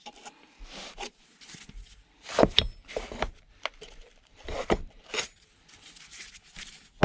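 A nailed-shut wooden box being forced open: irregular wooden scrapes and rubbing with a few sharp knocks, the loudest cluster about two and a half seconds in.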